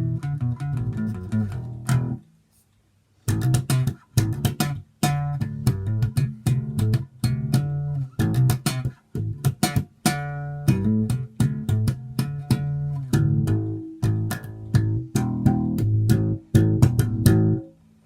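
Epiphone LE Custom Shop EB-3 electric bass played, a steady run of plucked notes. The playing stops for about a second around two seconds in, then carries on until just before the end.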